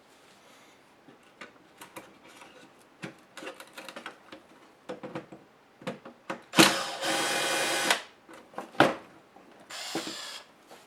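A small handheld power tool's electric motor runs twice, a loud steady burst of about a second and a half just past halfway and a shorter, quieter one near the end, while light clicks and taps of laptop parts and screws being handled come before and between.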